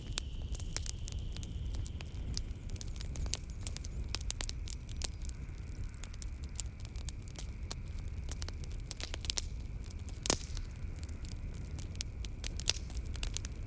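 Wood fire crackling in a fireplace: frequent irregular pops and snaps over a steady low rumble, with one sharper pop about ten seconds in. A faint steady high drone of night insects runs behind.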